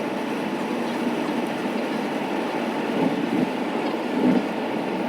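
Steady road rumble inside a moving car's cabin, with two brief swells late on, like bumps in the road.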